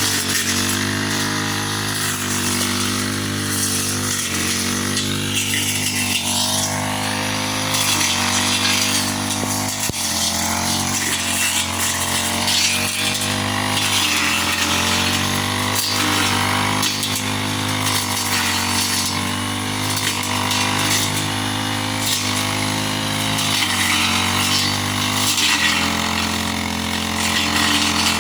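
Grass-cutting machine's small engine running steadily, its pitch wavering a little up and down, with a slight change in its note near the end.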